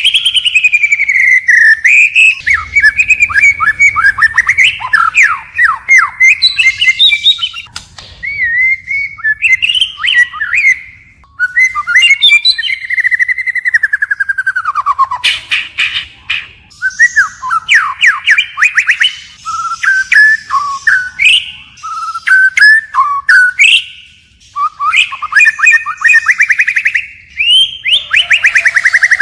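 White-rumped shama singing a long, varied song of clear whistles, rapid trills and sliding notes, one phrase after another with short pauses between, constantly switching to new phrases.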